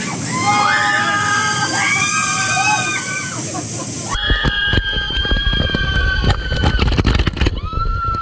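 Several people shrieking with long, held, high-pitched cries over rushing, splashing water. About four seconds in the sound cuts abruptly to a deep rumble with crackling splashes, and the held cries go on over it.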